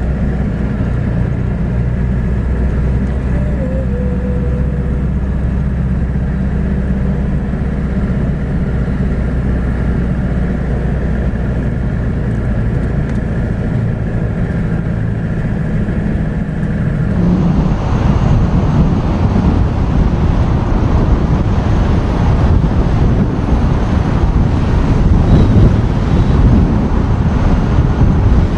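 Vehicle engine running steadily while driving. About two-thirds of the way through, the sound changes abruptly to louder, rougher road and wind noise.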